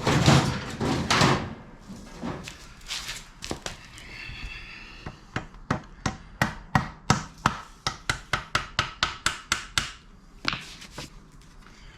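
A hammer tapping a stubborn part into place on a brake pedal assembly: a scrape near the start, then a fast run of sharp taps, about four or five a second, from about five seconds in until near the end.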